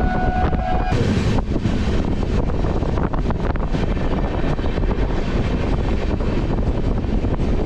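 Steady running noise of a passenger express train at speed, heard from an open coach window: wheels on the rails and wind buffeting the microphone. A short steady tone sounds and stops about a second in.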